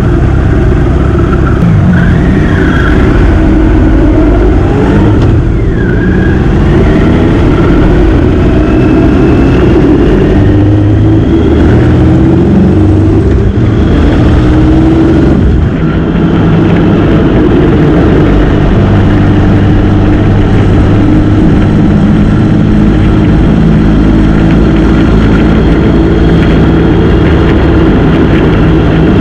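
Motorcycle engine running under way, its pitch rising several times as it accelerates through the gears in the first half, then holding steady at cruising speed.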